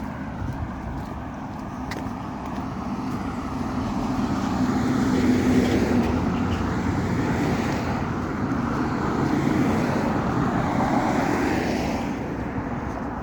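Road traffic: motor vehicles passing, the engine and tyre noise swelling to its loudest about five seconds in and again around ten seconds, then fading.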